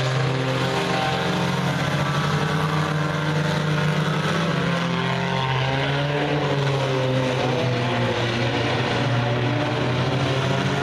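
Several race car engines running together on the track, overlapping in a steady drone whose pitches drift slightly up and down.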